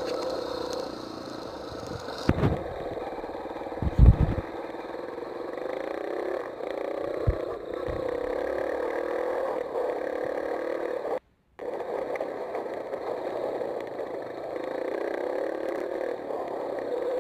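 Dirt bike engine running on a track, its pitch wavering up and down with the throttle. A few sharp thumps come through, the loudest about four seconds in, and the sound cuts out briefly about eleven seconds in.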